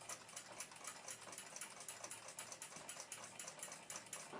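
Faint clock ticking, quick and even, at about five or six ticks a second.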